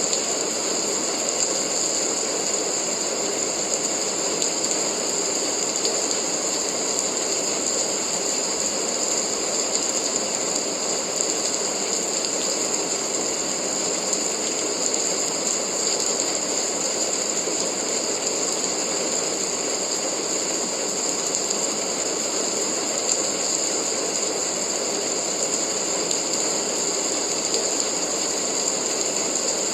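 Steady rain: a dense, even patter of drops that holds one level throughout.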